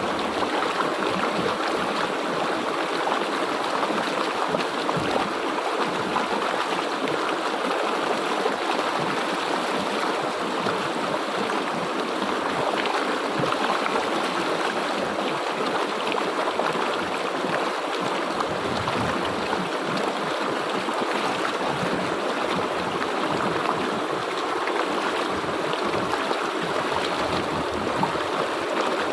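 River water flowing steadily over rocks: a continuous, even rush.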